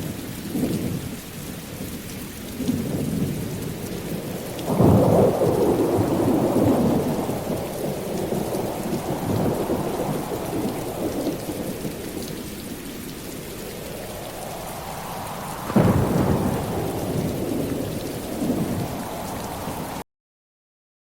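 Steady rain with rolling thunder, the rumbles swelling twice, about five seconds in and again near sixteen seconds. It cuts off suddenly about a second before the end.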